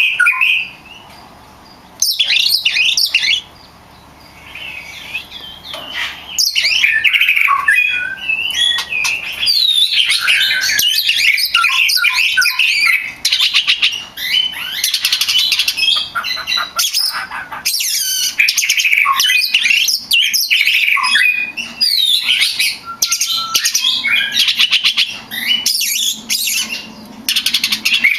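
Oriental magpie-robin singing a long, varied, energetic song of whistles, chirps and rapid trills. It pauses briefly twice near the start, then runs almost without a break.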